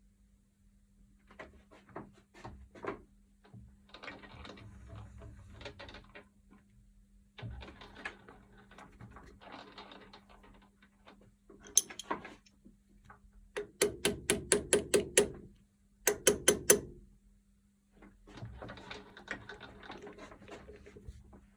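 Hand work on small metal parts: stretches of scraping and scattered clicks, with two quick runs of sharp metallic taps, about six a second, around two-thirds through, over a faint steady hum.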